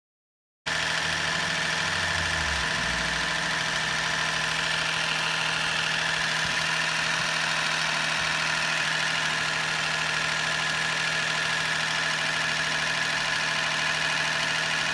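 Suzuki Wagon R (MH21S) three-cylinder engine idling steadily, its sound cutting in abruptly just under a second in; it is run to check an abnormal engine noise after an additive treatment.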